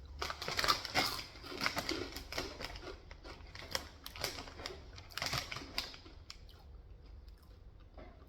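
Close-miked chewing of crunchy food: a quick, irregular run of crisp crunches and mouth clicks that thins out after about six seconds.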